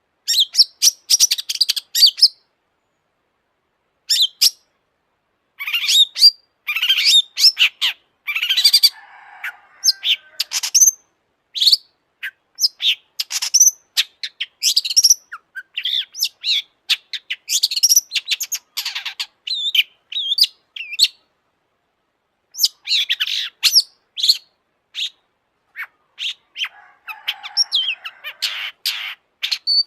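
Long-tailed shrike (cendet) singing in rapid bursts of high-pitched chattering phrases, broken by short silent pauses. A harsher, raspy passage comes about a third of the way in and again near the end.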